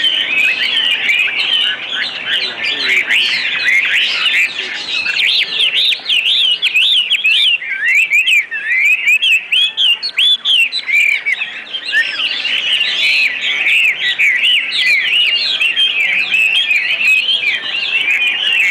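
Many caged birds chirping and twittering at once: a dense, unbroken chorus of short rising and falling chirps.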